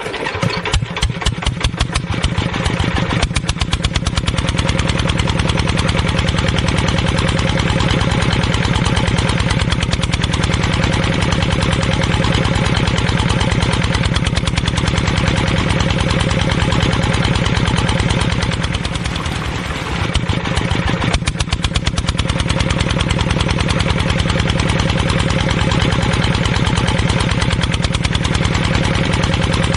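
Miniature engine of a home-made tractor water pump running with a fast, even chugging. Its sound dips and slows briefly about two-thirds of the way through, then picks up again.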